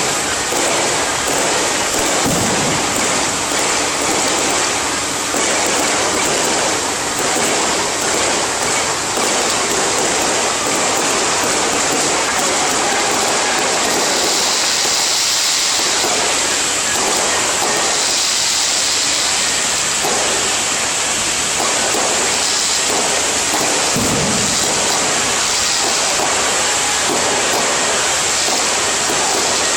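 Strings of firecrackers going off in a dense, continuous crackle of small bangs.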